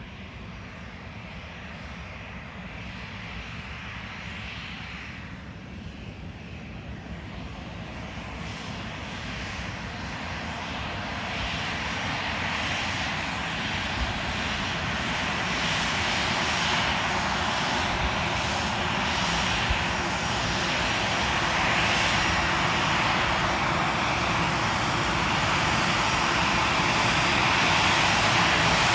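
Jet airliner's engines, a steady rushing roar that grows gradually louder throughout as the aircraft draws nearer.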